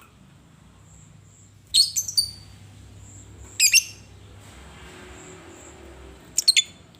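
Lovebird chirping in three short, shrill bursts, about two seconds apart.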